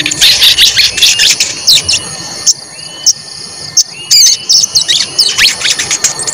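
Sogon songbird singing in bursts of rapid, high sweeping 'cuit cuit' chirps mixed with short rising whistled notes, with a quieter pause midway.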